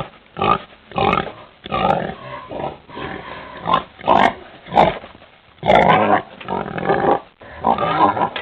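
An animal's calls: a run of short, irregular, noisy calls of uneven loudness, about a dozen over eight seconds.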